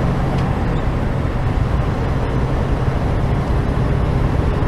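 Steady truck-cab noise while driving: a low engine drone under even road noise.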